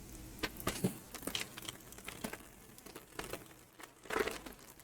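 Candy wrapper being crinkled and torn open by hand: a scattered run of short crackles, loudest about a second in and again near the end.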